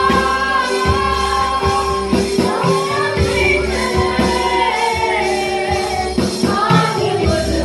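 Hindi Christian worship song sung by a group of voices over band accompaniment with a steady beat.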